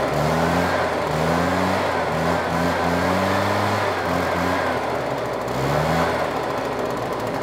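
Husqvarna 150BT backpack leaf blower's two-stroke X-Torq engine running steadily just after a cold start, with a constant fan whine.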